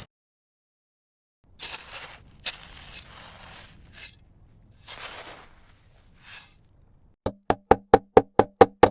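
Short bursts of hissing noise, then from about seven seconds in a rapid, even run of sharp, ringing knocks, about four a second.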